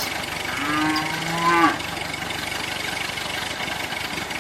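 A cow moos once, a single call of just over a second, over a steady mechanical hum.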